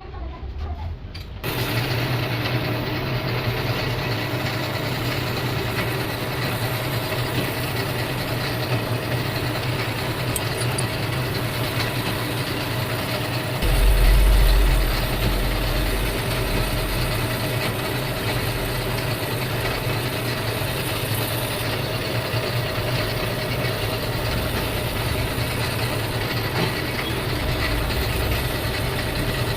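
Lathe running steadily while taking a finishing (polish) cut on a brake rotor, with a constant motor hum under the machining noise. About halfway through, a deeper rumble swells for a couple of seconds.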